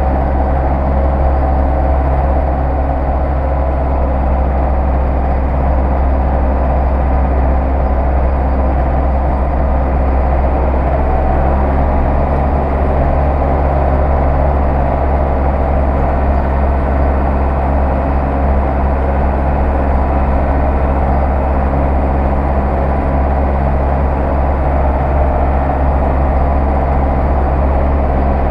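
Zetor 6911 tractor's four-cylinder diesel engine running steadily at a constant speed.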